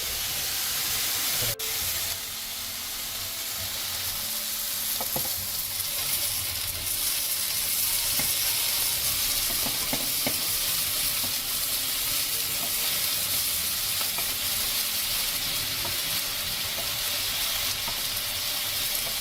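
Food sizzling as it fries: a steady hiss, with a sharp click about a second and a half in and a few faint ticks later.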